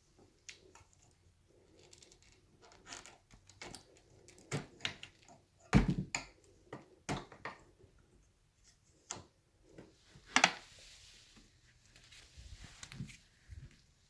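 Scattered clicks and knocks of hard plastic parts being handled on an upright vacuum that is switched off, with two louder knocks about six and ten seconds in.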